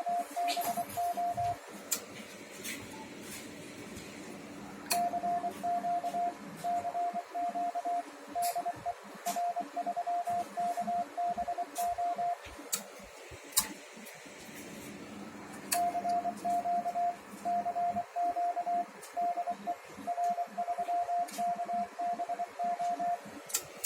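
Morse code (CW) sent as a single steady beeping tone, keyed in dots and dashes in three runs of several seconds with pauses between them, with scattered sharp clicks.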